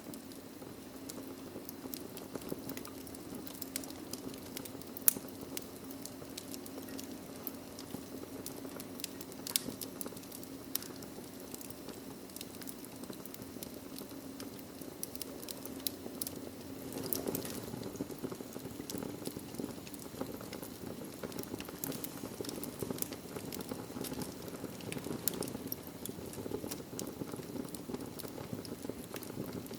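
Wood fire in a fireplace crackling: scattered sharp pops and snaps over a steady low rush of the flames. The crackling grows busier and a little louder a bit past halfway.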